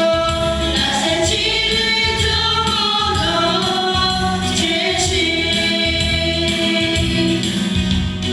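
A group of voices singing a Christian worship song over instrumental accompaniment with a steady beat.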